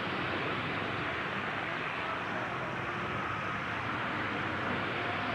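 Steady din of demolition derby truck engines running, an even rumble and hiss.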